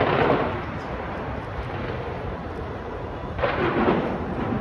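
Aerial fireworks display: a continuous rumble of overlapping shell bursts booming together like thunder, with a louder flurry of bursts about three and a half seconds in.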